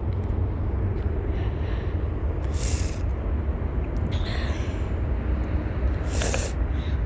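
Wind buffeting a handheld phone's microphone: a steady, uneven low rumble. It is broken by three short breathy hisses close to the microphone, about two and a half, four and six seconds in.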